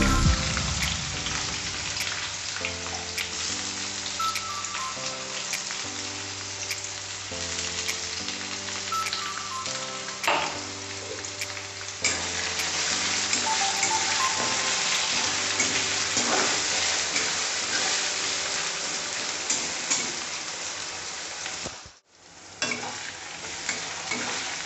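Chopped onions and spices sizzling in hot oil in an iron kadai, with a spatula stirring and scraping against the pan. Faint background music plays underneath, and the sound cuts out briefly near the end.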